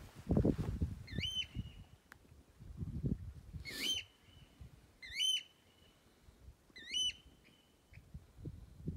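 A bird calling four times, each a short clear whistled note that rises and then drops, a second or two apart, with low rumbling noise in between.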